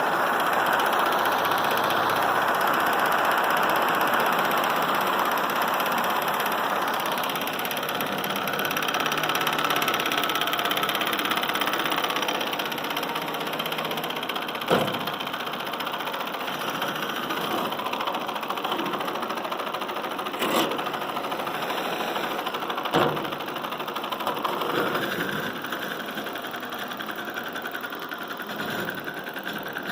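Small all-metal Stirling engine running steadily with a light mechanical clatter, with a few sharp knocks, and getting gradually quieter over the second half.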